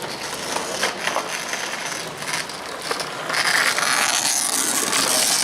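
Longboard wheels rolling over pavement, a steady grinding rumble that grows louder about three seconds in as the repaired board is test-ridden.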